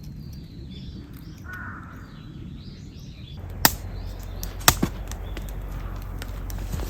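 Outdoor ambience with faint bird calls. About halfway through, a louder hiss sets in and two sharp cracks sound about a second apart.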